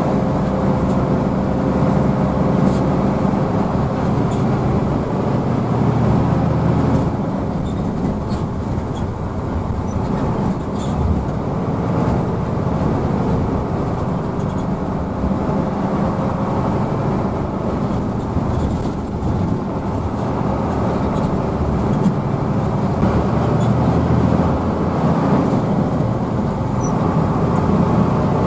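Hino AK bus's diesel engine running under way, heard from inside the cabin along with road noise. A thin whine sits over the engine note, fading out early on and coming back near the end.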